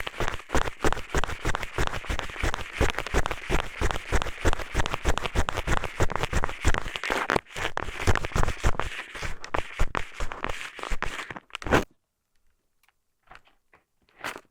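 Rapid, dense scratching and rubbing of a pair of eyeglasses worked in a binaural microphone's ear canal as an ear pick, many strokes a second. It stops abruptly about twelve seconds in, and a few faint strokes follow near the end.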